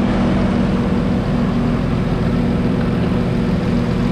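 Car engine idling steadily, with an even, unchanging hum and no revs.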